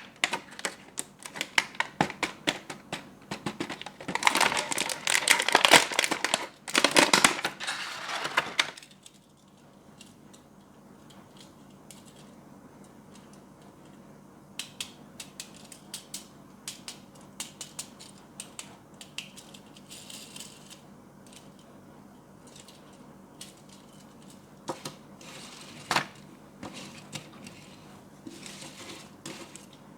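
Toy packaging being handled and opened: dense crinkling and crackling for the first eight or nine seconds, then scattered light clicks and taps.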